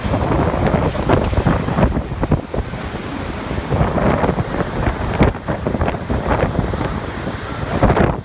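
Typhoon-force wind gusting hard against the microphone: a loud, rumbling buffeting that surges and drops irregularly.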